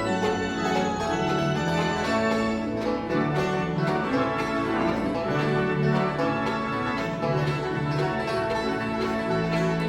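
Bluegrass band playing an instrumental passage, with banjo and guitar picking over long held tones.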